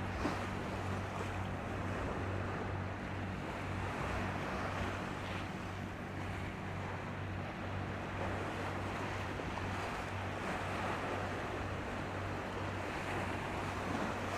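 Steady low drone of a high-speed passenger ferry's engines under an even wash of wind and sea water.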